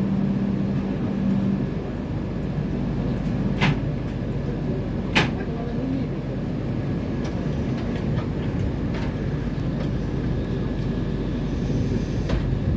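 Running noise of a moving passenger train heard from inside the coach: a steady low rumble, with two sharp knocks about four and five seconds in.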